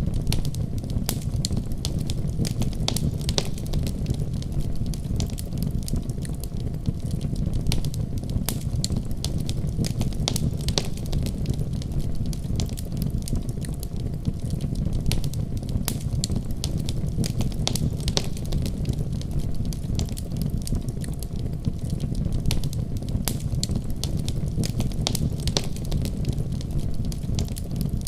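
Fireplace fire crackling steadily: a constant low rumble of burning, with frequent irregular snaps and pops.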